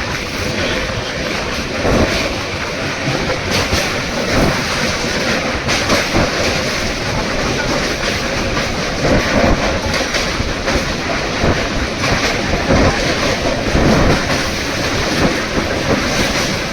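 Passenger train on the move, a continuous rumble with the wheels knocking over rail joints at irregular intervals.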